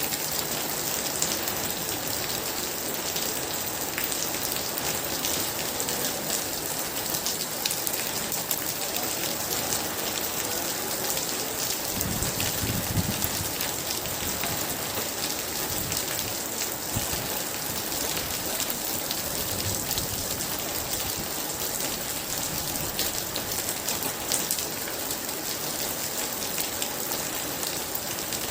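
Heavy rain falling steadily: an even hiss full of sharp drop impacts. A brief low rumble of distant thunder comes about twelve seconds in.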